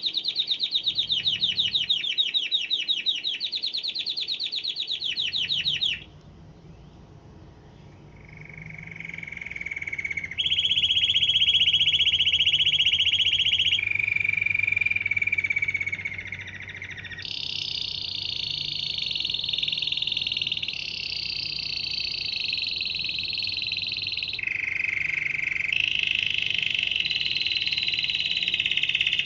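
Canary singing a long song of rapid trills, each rolled on one pitch for a few seconds before switching to a new trill, with a short pause about six seconds in.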